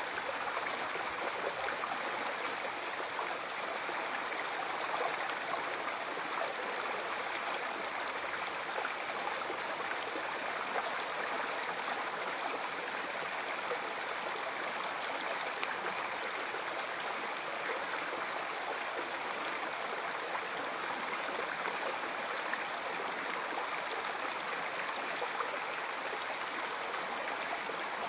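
River stream flowing steadily: an even rush of water over rocks, with no pauses or changes.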